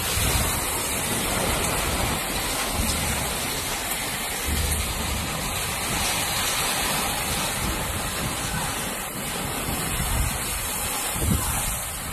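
Heavy rain pouring steadily in a gusty storm, with wind rumbling on the microphone.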